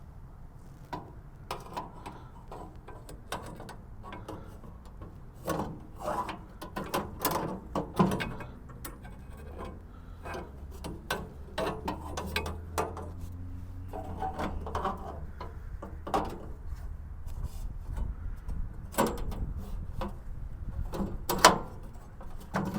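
Irregular knocks, clanks and scraping from handling metal parts as a new bandsaw blade is fitted onto a Frontier OS23 sawmill, with a low steady hum underneath through the middle.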